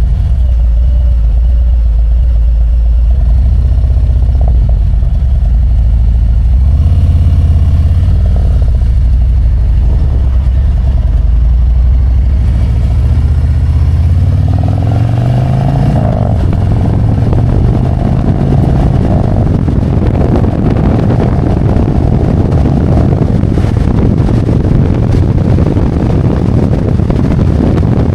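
Harley-Davidson Road Glide's V-twin engine running at low road speed, then accelerating with a rising pitch about halfway through, after which wind and road noise fill in as the bike cruises faster.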